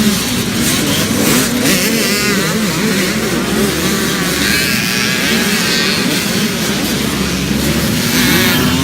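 Several small youth dirt bikes running and revving together, their engine notes continually rising and falling in pitch.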